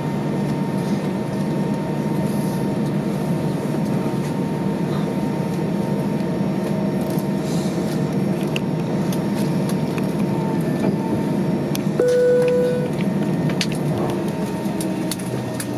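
Airbus A320 cabin noise on the ground after landing: a steady hum from the engines and air conditioning with a few steady tones in it. Scattered clicks come in the second half, and a short tone sounds about twelve seconds in.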